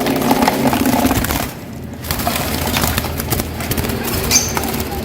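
Lovebirds chattering and squawking in their cages, with a dense run of rapid scratchy clicks and a sharp high chirp near the end.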